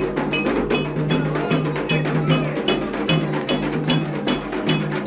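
Ritual percussion for Xangô: hand drums with a metal bell struck in a steady, fast rhythm, about five strokes a second, the bell strikes ringing high above the drums.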